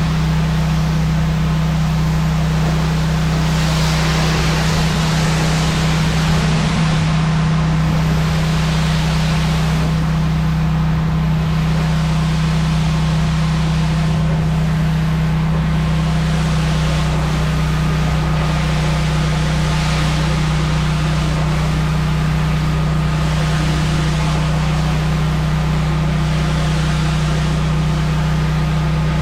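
Pressure washer's engine running steadily with a constant hum, under the hiss of high-pressure water spraying onto concrete, which swells and fades several times.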